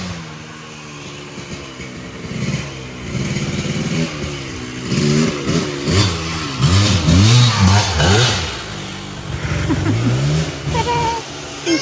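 An engine revving up and down repeatedly, its pitch rising and falling again and again.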